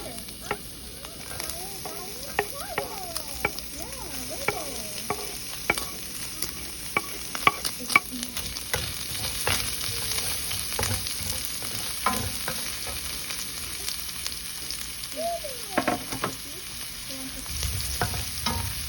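Food sizzling as it fries in a pan, stirred with a utensil that clicks and scrapes against the pan at irregular intervals.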